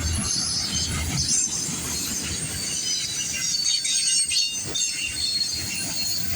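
Auto rack freight cars rolling past, their steel wheels squealing and screeching against the rails over a low rumble that fades after the first couple of seconds.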